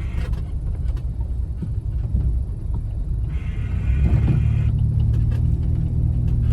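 Jeep Wrangler driving on a snow-covered road, heard from inside the cab: a steady low rumble of engine and tyres that grows louder about four seconds in.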